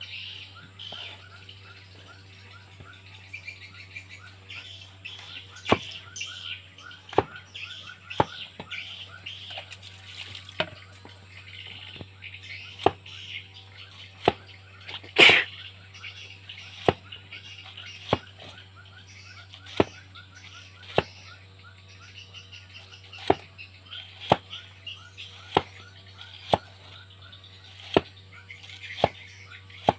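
Sharp knocks at irregular intervals, roughly one every second or two, the loudest about halfway through, over continuous high chirping and a low steady hum.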